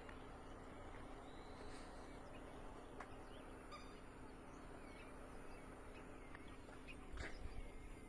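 Faint bird chirps, short and scattered, over a steady low outdoor hiss and rumble, with a brief louder rustle near the end.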